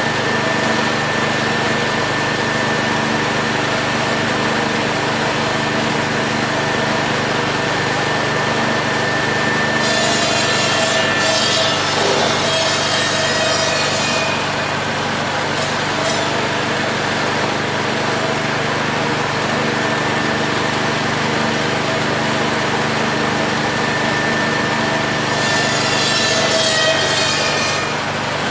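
Cassava stem cutting machine running with a steady motor drone, with two stretches of harsh cutting noise, about ten seconds in and again near the end, as stems are fed through the blades.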